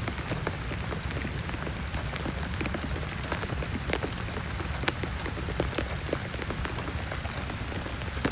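Heavy rain falling steadily, with many separate drops striking close by as sharp taps over the constant hiss of the downpour.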